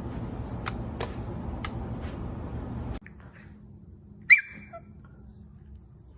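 A steady hum with scattered sharp clicks, then, after an abrupt change, a single short, sharp high-pitched animal cry, followed by a few faint high chirps.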